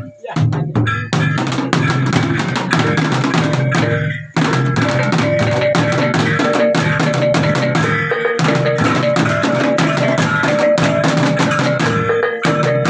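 Percussion music: fast, even drum strokes over sustained ringing tones. The playing breaks off briefly about four seconds in, then resumes.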